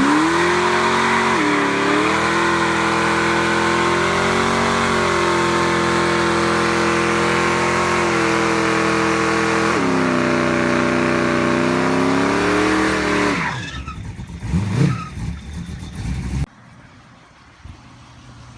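A motor vehicle's engine revving up and held at high revs for about thirteen seconds, its pitch dipping and climbing again twice. It then drops away with a couple of short revs and cuts off suddenly near the end.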